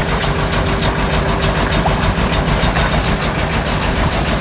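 Sailboat's auxiliary engine running steadily, with an even ticking clatter of about four to five beats a second; a steady hum under it stops near the end.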